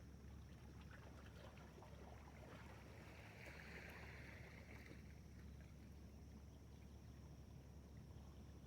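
Near silence: faint outdoor background with a steady low rumble and a thin steady high hiss, a few soft ticks, and a brief soft rush of noise about three seconds in.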